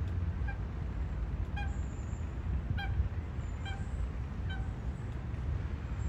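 A bird giving five short pitched calls, roughly a second apart, over a steady low rumble.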